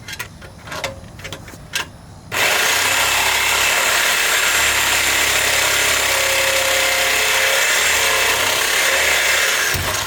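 A corded power tool cutting through the car's steel exhaust pipe. It starts about two seconds in after a few light knocks, runs loud and steady, and stops just before the end.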